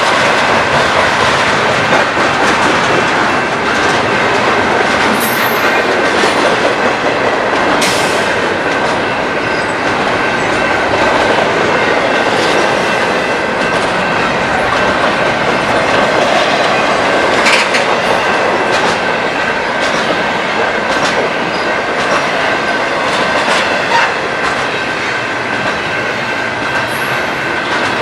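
Railroad cars rolling past at close range, the wheels clacking over the rails with scattered sharp clicks and a thin, steady high whine over the steady rumble.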